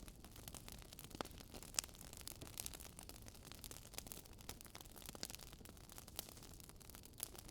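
Faint crackling of a wood fire: irregular snaps and pops, one sharper pop about two seconds in, over a low steady hiss.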